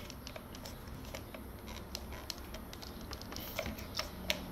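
Faint, irregular light clicks and taps of small plastic parts being handled as a hair dryer's broken fan is worked at to remove it.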